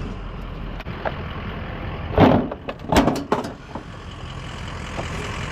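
Junk being loaded onto a vehicle: a few loud knocks and clatters about two and three seconds in, over a steady low rumble like an engine idling.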